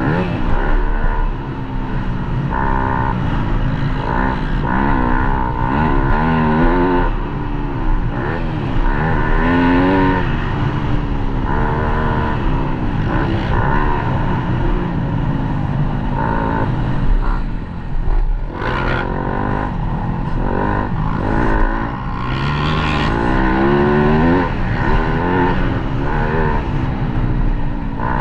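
Motocross dirt bike engine being ridden hard, its revs climbing and dropping again and again as the throttle is opened and closed.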